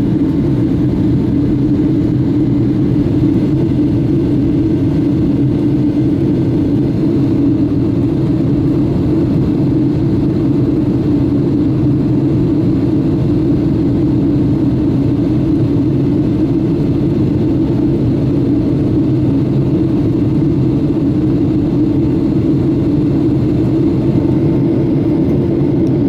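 Boeing 757-200 jet engines and airflow heard inside the passenger cabin in flight: a steady, loud drone that does not change.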